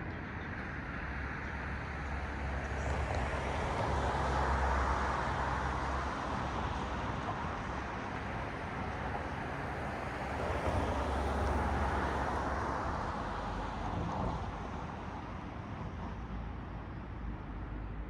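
Cars passing on a road, their tyre and engine noise swelling and fading twice, first a few seconds in and again past the middle, over steady traffic hiss.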